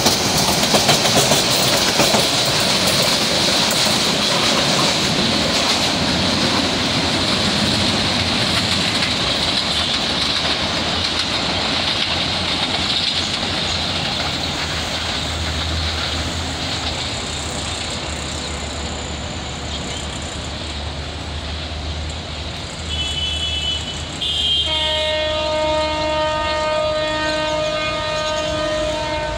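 Passenger train coaches rolling past on steel wheels, the rumble of wheels on track fading as the train draws away. Near the end a train horn sounds, a brief blast and then a long steady one.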